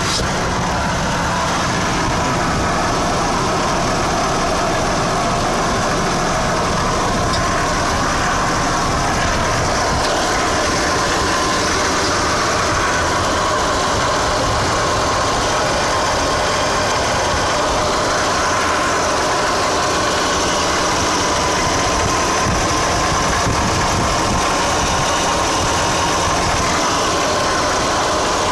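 Mazda RX-8's two-rotor rotary engine idling steadily, with no change in engine speed. It carries the unidentified running noise that the owner is asking about.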